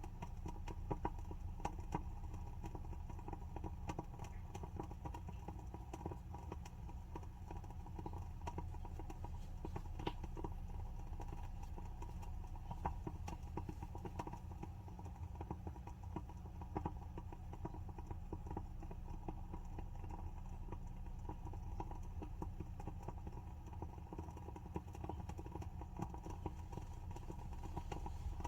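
WoodWick candle's wooden wick crackling as it burns: a steady stream of small, irregular pops and ticks over a low steady hum.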